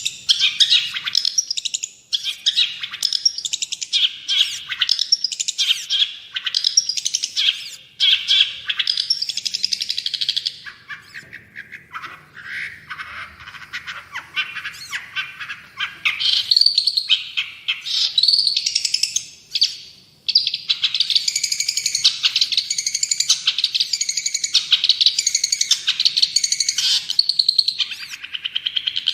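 Long-tailed shrike (cendet) singing an energetic, continuous song of rapid, scratchy chattering notes. It drops quieter and lower in pitch around the middle, then goes into a quick phrase repeated over and over in the last third.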